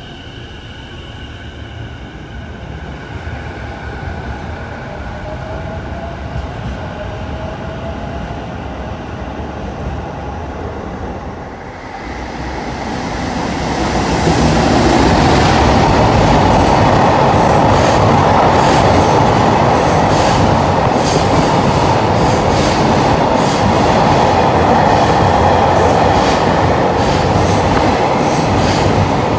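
An E233-series Keiyo Line electric commuter train pulls away, its motor whine rising in pitch as it accelerates. About twelve seconds in, an EF210 electric locomotive hauling a long freight train of containers comes through at speed with a loud, steady rumble of wheels on rail, and rapid clacks over the rail joints near the end.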